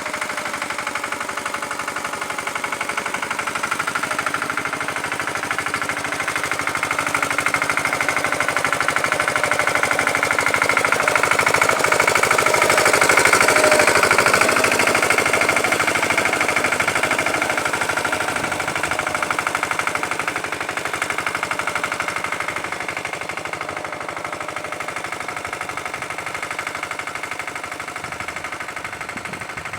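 Lombardini engine of a Pasquali 946 tractor running with a rapid firing beat. It grows louder toward the middle, then gradually fades.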